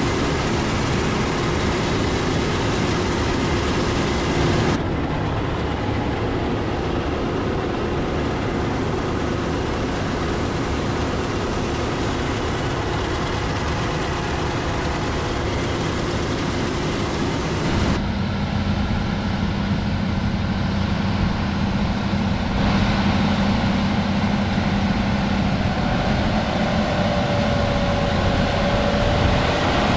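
Large harvest machinery, combine and tractor engines, running steadily while working a wheat field. The sound changes abruptly about 5, 18 and 23 seconds in, and a faint steady whine joins near the end.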